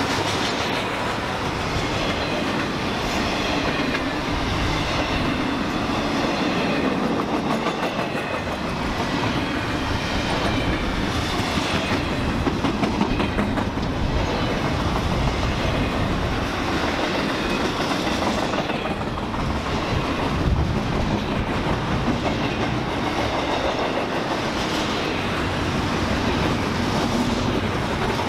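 Train cars rolling past on the track, with a steady wheel-on-rail rumble and rattle throughout.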